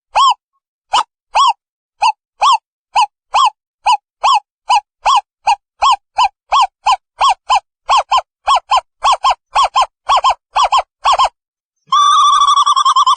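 Owl calling: a series of short hooting notes that speed up from about two to about five a second, then run together into a continuous wavering trill near the end.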